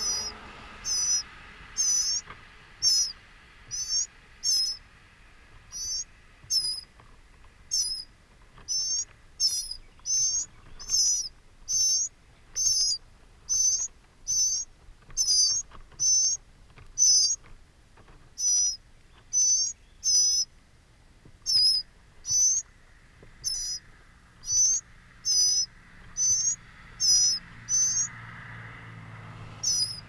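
A bird's short, high, wavering call, repeated about once a second without a break.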